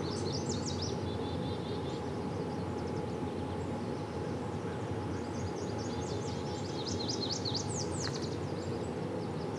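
Small songbirds singing in runs of quick, high chirps, in two bouts: near the start and again in the second half. Under them is a steady low outdoor rush.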